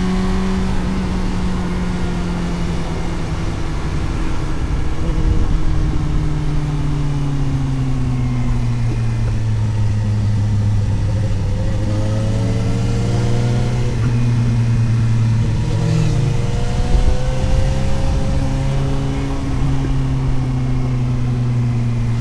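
Suzuki GSX-S750 inline-four engine heard from on board while riding, its revs falling slowly for about the first ten seconds and then holding steady at a low pitch, with a brief blip about two thirds of the way through. A low rush of wind noise runs beneath it.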